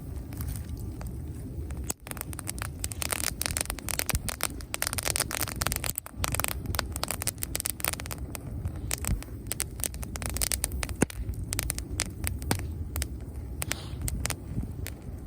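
Bonfire of dry leaves still on dead branches, crackling with many sharp pops over a steady low rumble. The popping is densest from about three to seven seconds in and again around ten seconds.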